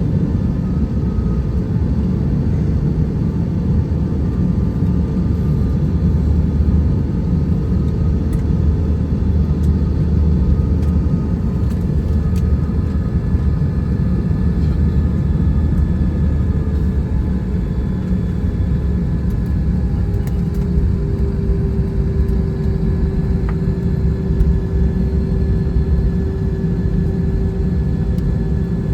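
Airbus A321-211 with its CFM56 engines running at a steady low power: a continuous low rumble with a few steady engine tones over it. One whine rises slightly about two-thirds of the way through, then holds.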